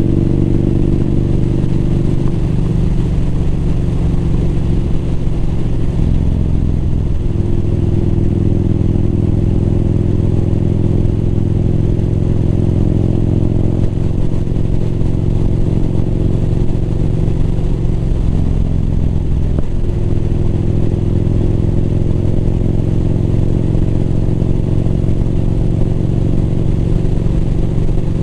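Motorcycle engine running steadily under way, with brief changes in the engine note about seven and twenty seconds in.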